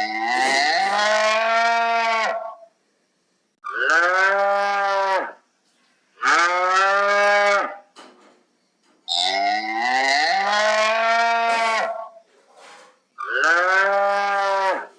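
Cow mooing: five long, drawn-out calls separated by short silent gaps.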